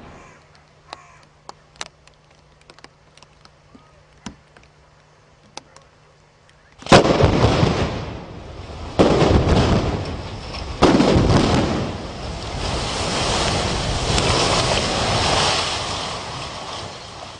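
Explosive demolition of a tower block: three loud blasts about two seconds apart, the first about seven seconds in, followed by a long rushing rumble as the building collapses.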